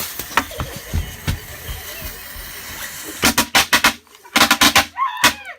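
A string of firecrackers going off in a bucket: a hissing stretch with a few knocks, then from about three seconds in a rapid crackle of sharp pops in two or three bursts.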